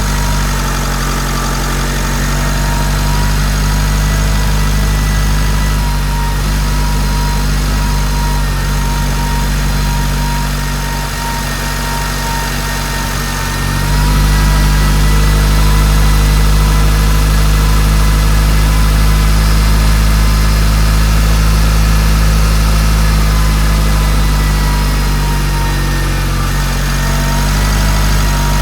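Mitsubishi Delica D5's diesel engine idling steadily, heard from the engine bay, with a thin steady whine over the idle. About fourteen seconds in, the low drone grows louder and stays up.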